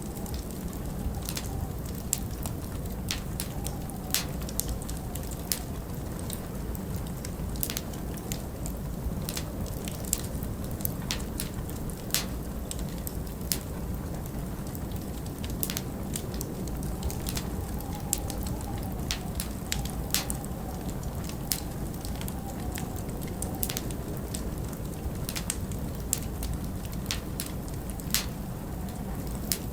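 Wood fire burning in a fireplace, with irregular sharp crackles and pops, several every few seconds, over a steady low rush of storm wind that at times carries a faint wavering whistle.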